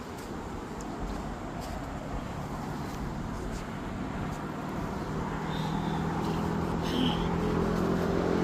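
Outdoor traffic noise: a steady rush, with a vehicle's engine hum growing steadily louder over the second half as it draws closer.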